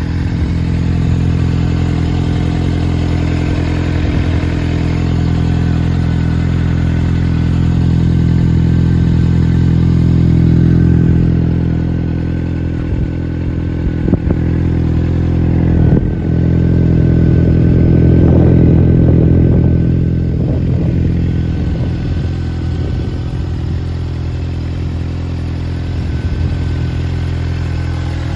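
Suzuki GSR400 inline-four motorcycle engine idling steadily through its exhaust, swelling slightly in level a couple of times, with a couple of short knocks about halfway through.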